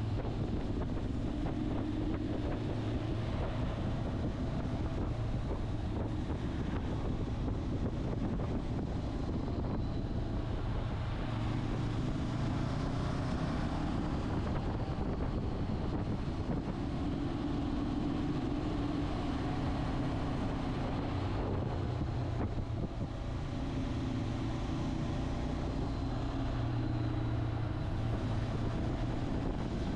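Motorcycle engine running on the move, its note rising and falling several times as the throttle changes, under heavy wind noise on the microphone.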